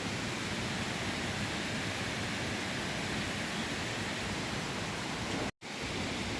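Steady rushing of falling water from a mountain waterfall, an even noise without breaks except one instant where the sound cuts out completely about five and a half seconds in.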